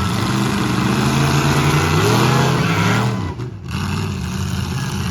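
Demolition derby car engines running hard and revving, with a rev rising about two seconds in and easing off near three seconds.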